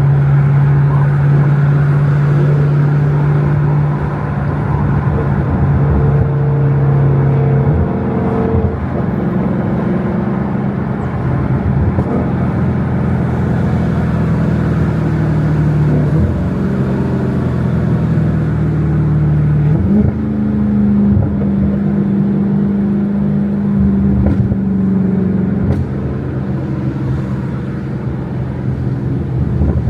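Dodge Hellcat's supercharged V8 running while the car is driven, a steady low drone whose pitch shifts up and down a few times, with road noise under it.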